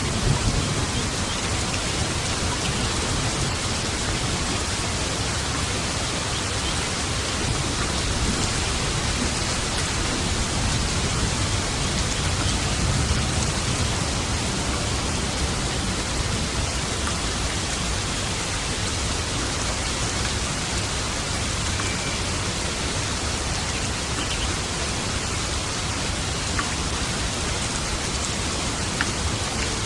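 Steady, heavy rain hissing without a break, with a low rumble of distant thunder swelling a little at the start and again about halfway through.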